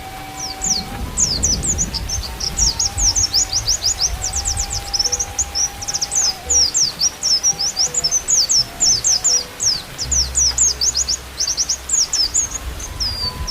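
White-eyes (pleci) singing a fast, continuous twitter of high chirps, over a slow bamboo flute (seruling) melody of long held notes.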